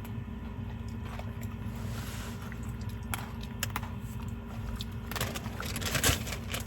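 A steady low hum with a few fixed tones, with scattered light clicks. About five seconds in, rustling and handling noise grows louder.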